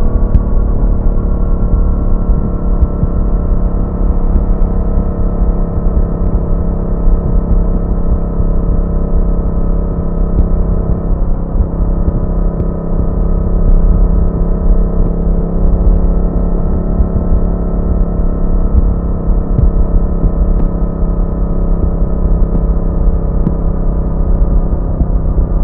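Yamaha MT-07's 689 cc parallel-twin engine running at a steady cruise, its pitch holding nearly level throughout, over a heavy low rumble.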